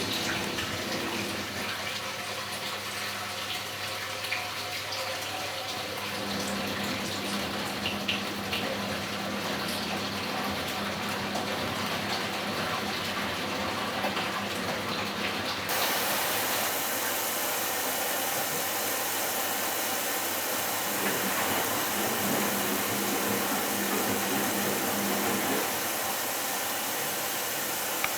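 Philco Bendix W84RX front-loading washing machine taking in water on its hot coloured-wash programme, a steady rush of water with a low hum that comes and goes. About halfway through, the hiss of the inflow gets louder and brighter.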